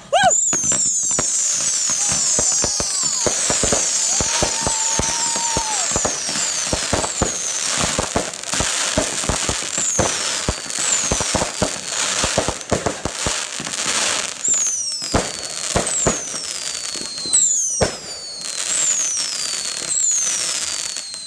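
A batch of consumer fireworks going off together: a rapid string of sharp cracks and pops mixed with many high whistles that fall in pitch. The whistles are thick and overlapping at first, then thin out to about one every second.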